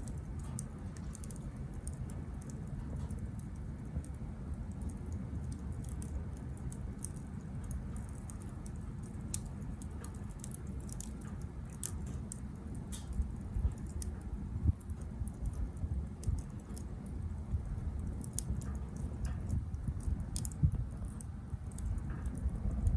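Small wood fire burning in a Captain Stag Kamado Smart Grill B6, with irregular sharp crackles and pops over a steady low rumble.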